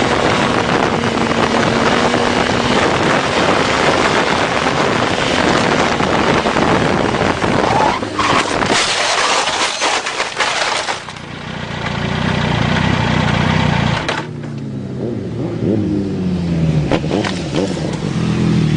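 Motorcycle ride at speed with heavy wind and road noise. About eight seconds in comes a burst of scraping and knocks as the bike goes down in a crash. Afterwards a low engine runs, and engines rev up and down near the end.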